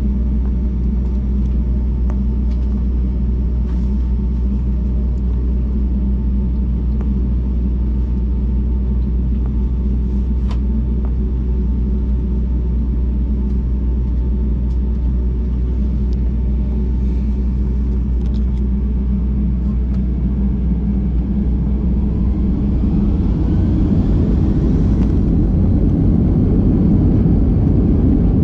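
Airliner engines heard from inside the cabin: a steady low rumble, then in the last few seconds a rising whine as the jet engines spool up and the noise grows louder, as for the takeoff run.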